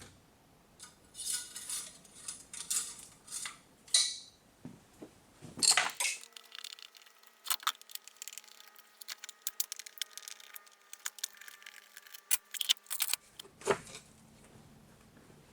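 Metal hand tools and engine parts clinking and knocking in a series of sharp taps, with a faint ringing tone through the middle.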